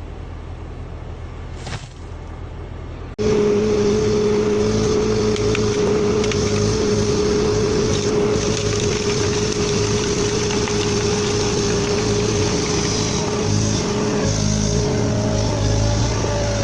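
Heavy forestry harvester's diesel engine running steadily with a steady whine over a low hum; about three seconds in it cuts abruptly from a quieter drone to a much louder one.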